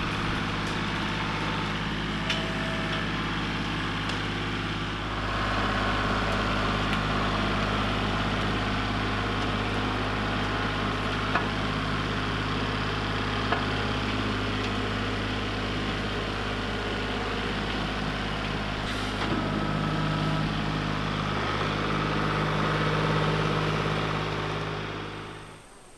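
Motor vehicle running steadily: a low, even engine hum under a constant rushing noise, with a couple of faint clicks. It cuts off abruptly near the end.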